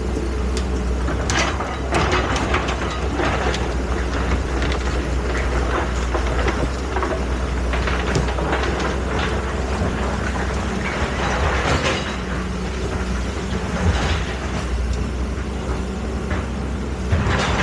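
Excavator working: a steady low engine drone with frequent metal clanks and knocks.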